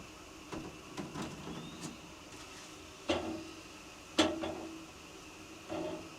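A series of knocks and clunks of hard objects being handled. Two sharp louder knocks come about three and four seconds in, each with a brief ringing tail, and softer clatter comes before and after them.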